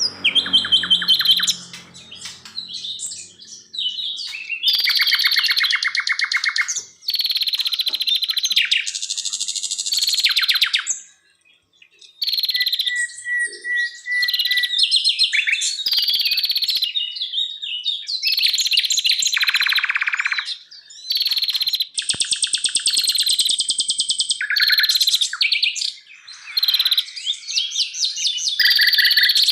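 Songbirds singing in a run of varied, rapid phrases of chirps and fast trills, high in pitch, each lasting a second or a few, with short pauses between them.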